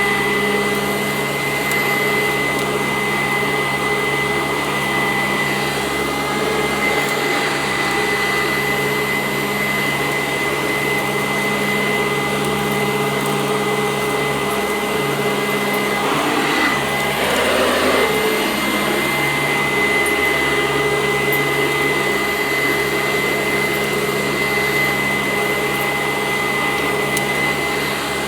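Sanitaire SC886 commercial upright vacuum running steadily on carpet, a constant motor whine at a few fixed pitches. About two-thirds of the way through there is a brief rougher rush of noise before it settles back to the steady whine.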